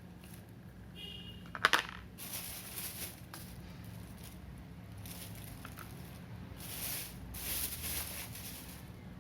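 Hard clay chunks knocking with one sharp clink about a second and a half in, then scattered crumbling and rustling noises.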